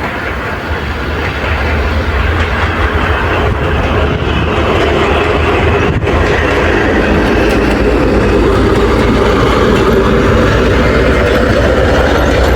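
Passenger train hauled by a TEP70 diesel locomotive rolling past, with the low steady hum of the locomotive's diesel and the clatter of wheels over rail joints. The sound grows louder over the first couple of seconds, then holds steady.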